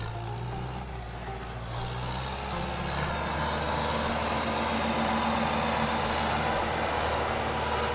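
Tractor engine running steadily, with a low hum and a noisy rumble that grows a little louder over the first few seconds.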